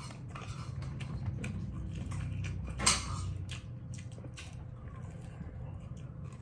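A person chewing and gnawing meat off a pork rib held in both hands: a run of short wet clicks and smacks, one louder than the rest about three seconds in, over a steady low hum.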